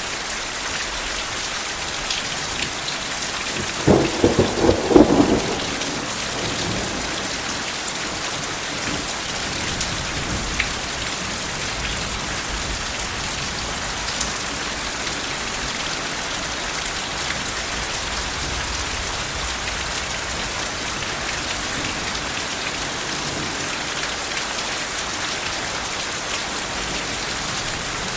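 Steady rain falling on a surface, with a short burst of thunder about four seconds in that lasts a second or so.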